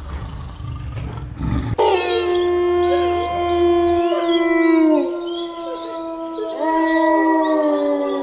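A rough, noisy big-cat roar that cuts off about two seconds in, followed by several animals howling in overlapping chorus: long held notes at different pitches, each sliding down as it ends.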